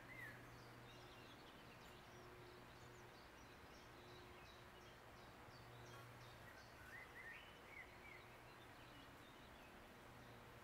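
Faint wild birds chirping over a quiet background hiss: short high calls, with a quick run of chirps about seven seconds in.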